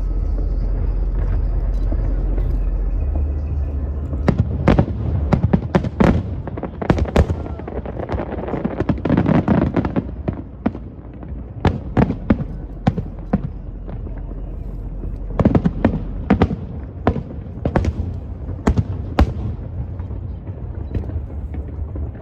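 Aerial fireworks going off: a steady low rumble for the first few seconds, then a string of sharp bangs from about four seconds in, coming in clusters with short lulls between them.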